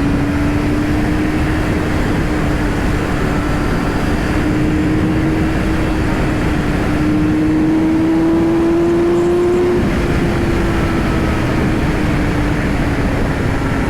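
Yamaha R6's inline-four engine with a slip-on exhaust, running at high revs under steady throttle. Its pitch creeps up, dips slightly about ten seconds in, then slowly falls as the throttle eases, over a heavy rush of wind noise.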